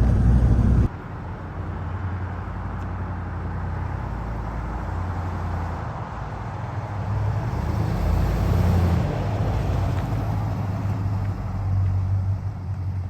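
1986 Ford F250's 460 V8 running through its new exhaust and mufflers, a steady low rumble. Louder stretches come about eight seconds in and again near the end. Just under a second in, the level drops abruptly to a quieter take.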